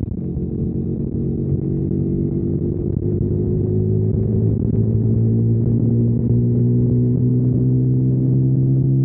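2021 KTM Duke 125's single-cylinder engine running through a Storm GP aftermarket exhaust, pulling under way with its pitch and loudness rising slowly over the first few seconds, then holding a steady drone.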